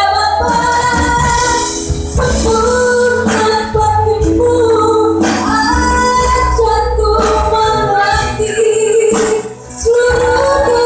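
Christian worship song: a female voice singing a melody over a band accompaniment with a light tambourine.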